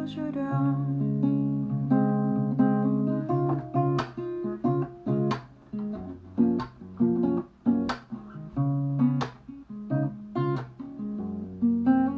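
Acoustic guitar playing an instrumental passage: plucked and strummed chords that change every second or so, with sharp percussive strokes at a fairly even pace.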